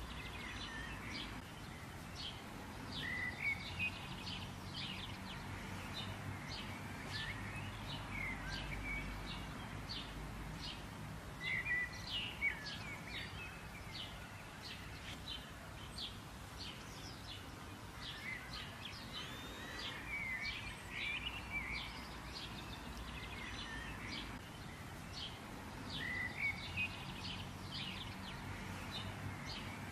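Small birds chirping many times over, with short high chirps and a few brief warbled phrases, over a steady low background noise.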